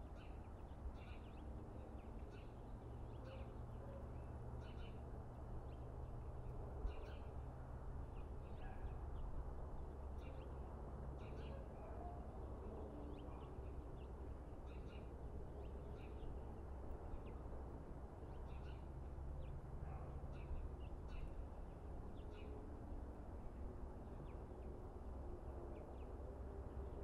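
Small birds chirping on and off, short high chirps every second or so, over a steady low background rumble.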